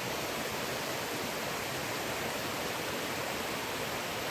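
Creek water rushing steadily, an even wash of noise without a break.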